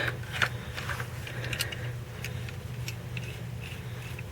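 Faint, scattered clicks and taps of hand tools being handled, likely the vice grips coming off the dipstick tube adapter, over a steady low hum.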